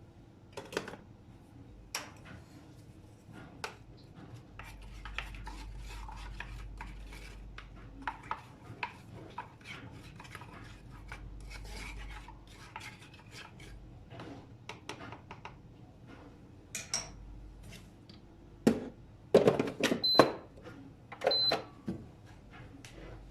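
Dishes and cutlery knocking and clinking in kitchen work, with some rubbing and scraping. Near the end there are a few louder clatters and two short, high electronic beeps.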